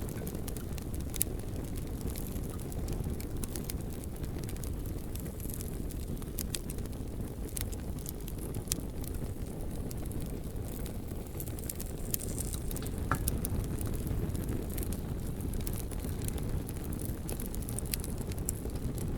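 Campfire burning, with scattered sharp crackles and pops from the burning wood over a steady low rumble.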